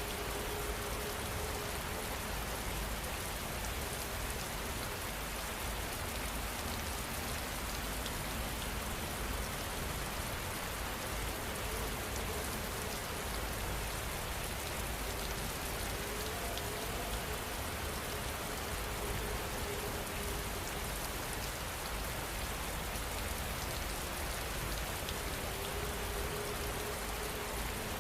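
Steady rain falling, an even unbroken hiss of drops on surfaces, with a faint low tone coming and going in the background.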